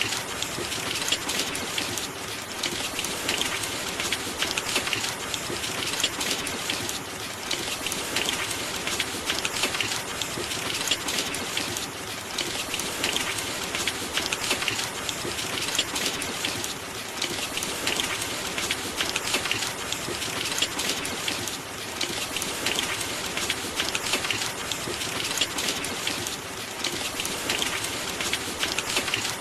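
Steady rain: a dense patter of many drops that swells and eases gently every few seconds.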